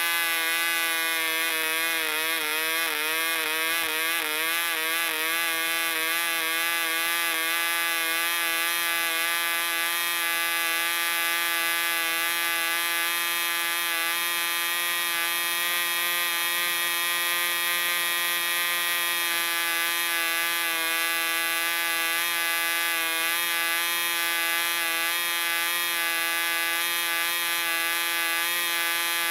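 Barbini B.38 1cc model diesel engine running flat out with its propeller spinning, a steady high-pitched buzz. The pitch wavers up and down for the first several seconds before settling: the engine is new and not yet broken in, which the owner gives as the reason for its uneven running.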